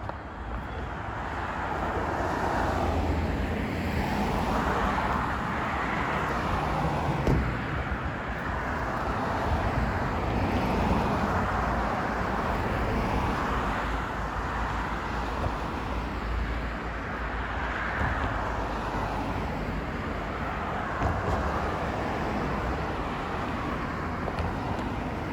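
Road traffic along a street: a continuous rumble with vehicles swelling past every few seconds.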